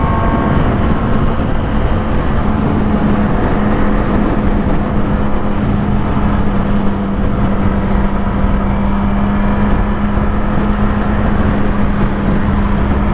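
Motorcycle cruising at a steady highway speed: a constant engine drone that holds one pitch, under heavy wind and road rush.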